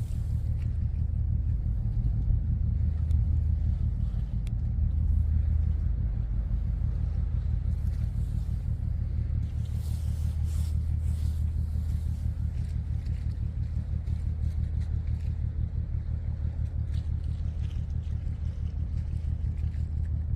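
Steady low engine rumble, a constant drone with no change in speed.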